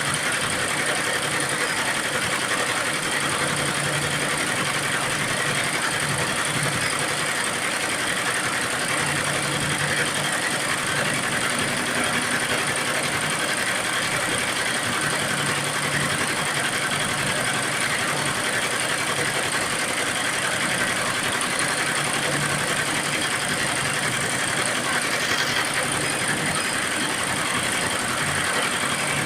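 Computerized embroidery machine running and stitching, a steady mechanical chatter that goes on without a break.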